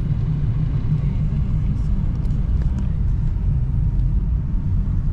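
Dodge Challenger Scat Pack's 6.4-litre HEMI V8 cruising, a steady low rumble mixed with road noise, heard from inside the cabin.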